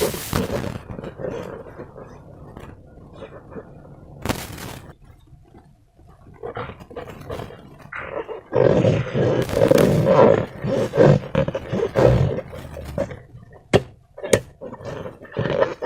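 Slime and rubber balloons being squeezed and handled, giving irregular squelching and rubbing sounds with a few sharp clicks. The handling grows louder and rougher about halfway through.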